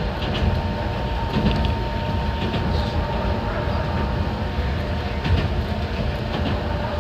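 Enoden electric train running along the track: a steady low rumble of wheels on rail, with a thin steady whine and scattered short clicks.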